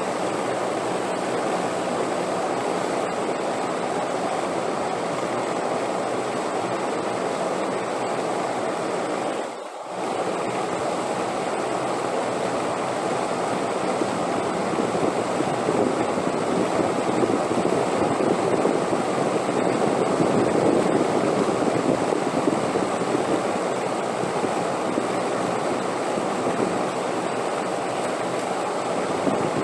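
Steady rushing wind, an even noise with no distinct events, heaviest in the low-middle range. It drops out briefly about ten seconds in, then swells somewhat louder for a while in the middle.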